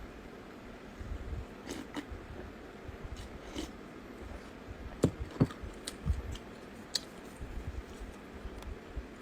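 Close-up eating sounds: a person chewing with scattered crisp crunches and bites, the sharpest pair about five seconds in.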